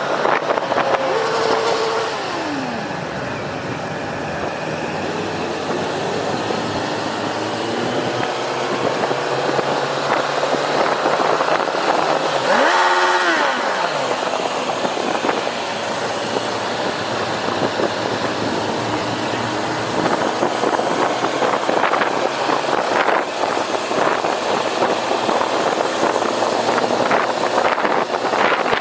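Motorcycle engines in a large group ride, heard from a moving motorcycle: its own Kawasaki engine with many other bikes around it, their pitch rising and falling as they speed up and slow down. About 13 seconds in, one engine is loud and drops sharply in pitch as it revs down.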